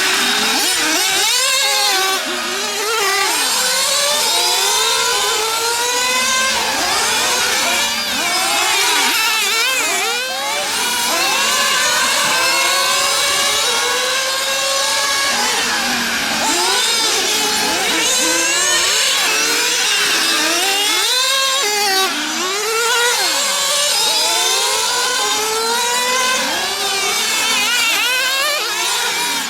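Several small nitro glow engines in 1/8-scale RC cars lapping together, their high-pitched whine rising and falling over and over as they accelerate and back off through the corners.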